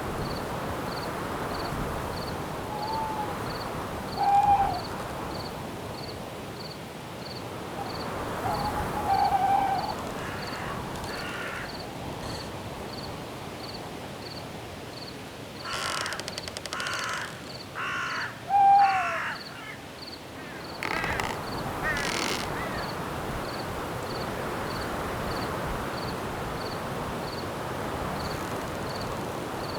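Night forest ambience: a steady hiss of wind in the trees under an insect chirping at an even pace. Birds call several times over it, loudest in a cluster of harsh calls about halfway through.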